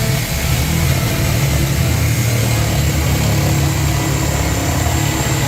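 Reciprocating saw (Sawzall) running steadily at full speed, cutting through the hot tub.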